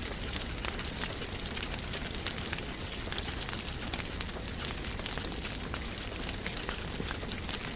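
Fireplace fire crackling steadily: many small sharp pops and snaps over a soft hiss.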